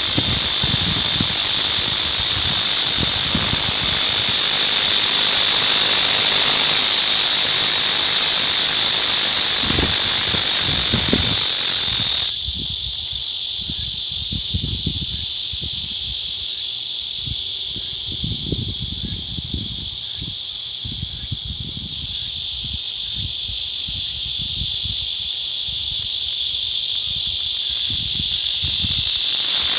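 Cicadas singing: a loud, steady, high-pitched buzzing drone. About twelve seconds in it suddenly drops quieter and thinner, then slowly builds and jumps back up to full loudness near the end.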